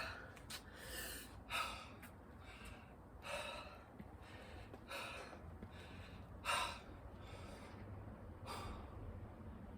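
A person breathing hard from exertion: heavy, gasping breaths every second or two, the loudest about six and a half seconds in.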